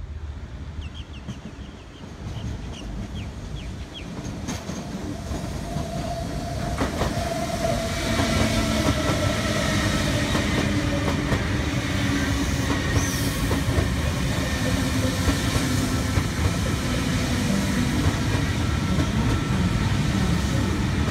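A double-deck electric passenger train running along the platform: a steady rumble of wheels on rail that builds over the first several seconds, then holds.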